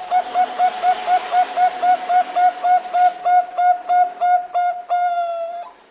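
Perkutut bangkok (zebra dove) calling: a fast, even run of short clipped coo notes, about four a second, ending in one longer drawn-out note that falls slightly.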